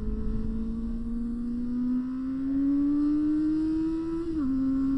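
Inline-four sport-bike engine pulling higher in revs under steady acceleration, then dipping sharply as it shifts up a gear about four seconds in and running steadily after, over a low rumble.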